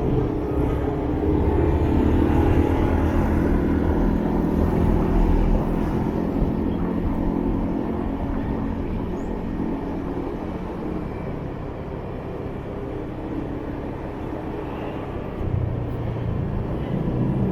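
Motorbike engine running under way amid city traffic, heard from the rider's own bike. It grows quieter through the middle and picks up again near the end.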